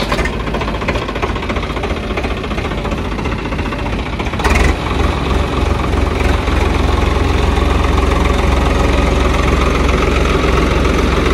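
Heavy diesel engine running steadily; about four and a half seconds in there is a brief sharp noise and the engine's low rumble grows louder and holds there.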